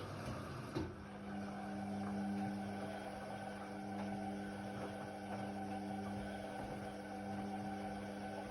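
Indesit WIDL 106 washer-dryer running: a click about a second in, then a steady electric hum from the machine's motor or pump that holds without change.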